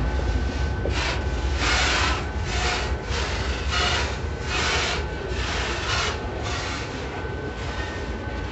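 MRS freight train's covered hopper cars rolling past over a level crossing: a steady low rumble of wheels on rail with irregular bursts of high hiss about once a second, easing toward the end.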